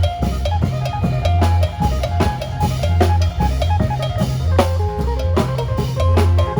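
Isan phin band playing lam phloen: a plucked phin melody over a drum kit and deep bass notes, with a steady, driving beat.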